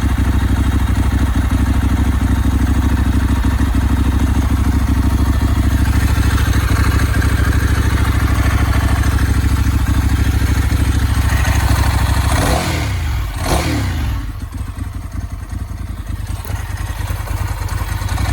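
1999 Ducati 996's 90-degree V-twin engine running on fast idle during a cold start, with the high-idle button pressed in. The steady, loud running note wavers about twelve seconds in and the level falls for a few seconds, then picks back up near the end.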